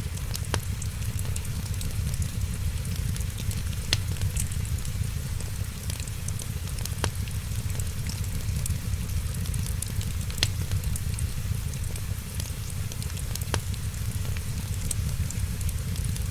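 Wood fire crackling, with a sharp pop about every three seconds over a steady low rumble and fine hiss.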